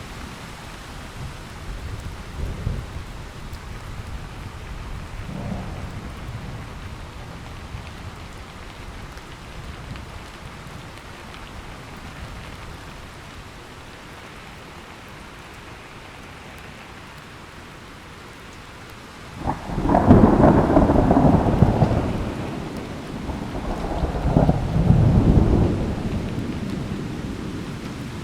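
Steady heavy rain with low rumbles of thunder in the first few seconds. About two-thirds of the way through comes a sudden loud thunderclap that rolls on for a couple of seconds, swells again a few seconds later, then fades back into the rain.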